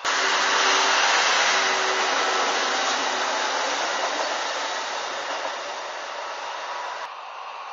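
Deutsche Bahn regional train passing close by: a loud, steady rushing rumble that starts suddenly and slowly fades.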